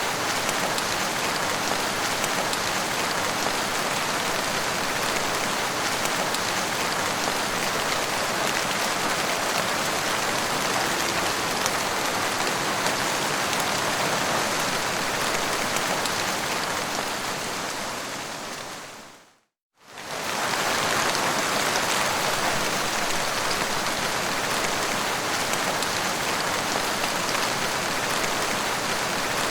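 Steady rain falling and pattering on surfaces. About two-thirds of the way through it fades out to a moment of silence and straight back in, like a loop seam in the recording.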